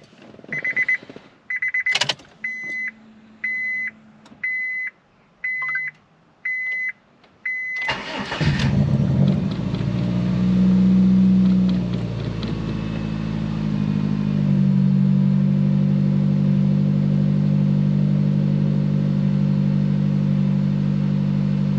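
A Honda Civic's dashboard warning chime beeping steadily, a bit under twice a second, then stopping as the engine is cranked and starts about eight seconds in. The engine revs up briefly, then settles into a steady idle; the start is pretty rough, on a car that feels weak under load.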